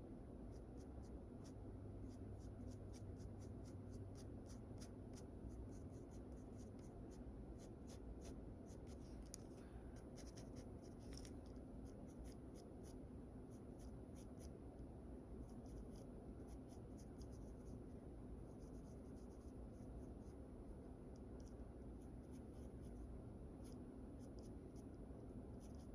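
Faint scratching of a drawing tool on paper in many quick, short sketching strokes, over a steady low room hum.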